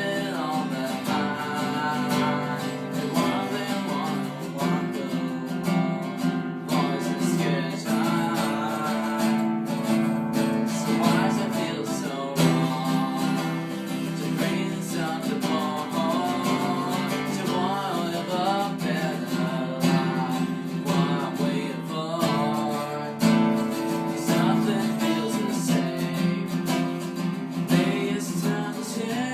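Acoustic guitar strummed steadily while a singer sings the melody over it, a live cover of a rock song.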